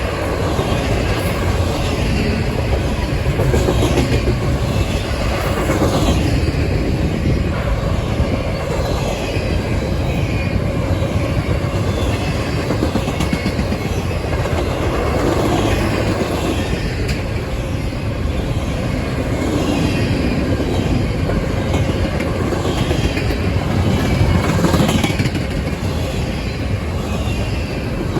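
Cars of a fast-moving CSX intermodal freight train rolling past close by: a steady loud rumble of steel wheels on rail, with repeated clatter over the rail joints.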